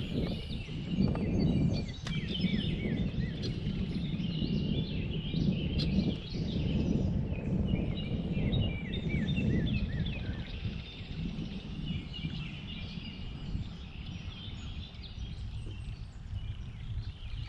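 Songbirds singing, many short chirps and quick downward-slurred notes overlapping, over a steady low rumble.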